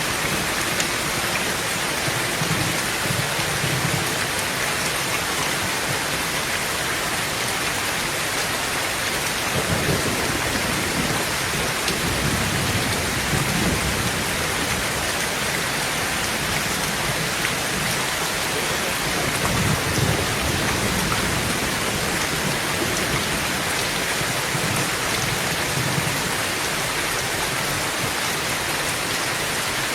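Heavy rain falling steadily on a tin tent roof, with several low rolls of thunder rumbling under it, the strongest about twenty seconds in.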